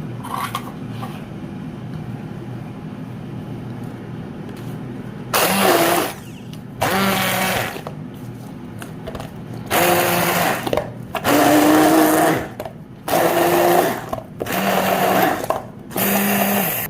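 Hand blender (immersion blender) running in short pulses of about a second each, seven times in the second half, blending yogurt with mint and spices into raita.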